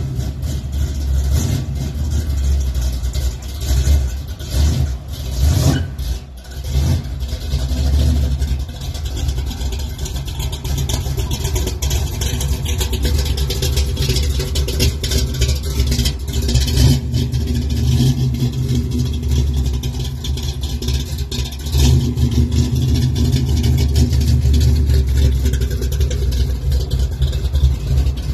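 A 1969 Chevrolet C10's rebuilt 383 V8 running, with uneven surges in engine speed in the first several seconds before it settles to a steady run. It grows louder about three quarters of the way through.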